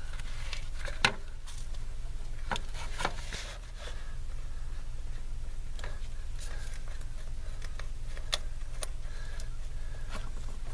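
Scattered clicks and light knocks of hand work on tools and copper line, the sharpest about a second in, over a steady low hum.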